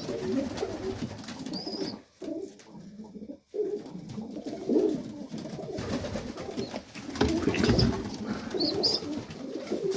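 Domestic pigeons cooing in a loft, with repeated low throaty coos and a few short high squeaks. The sound dips briefly about two seconds in.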